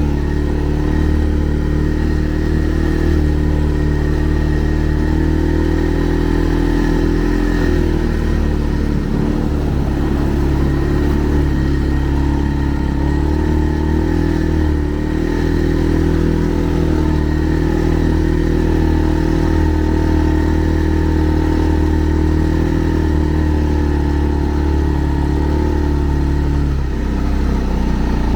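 Segway Snarler 570 ATV engine running at a fairly steady speed, with small rises and falls in engine speed and a brief dip near the end.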